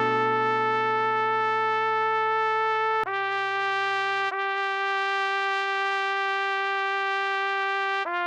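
Trumpet playing a slow melody in long held notes: one note for about three seconds, a step lower held for about five seconds, then a step down again at the very end. A low sustained accompaniment sounds under it for the first four seconds or so.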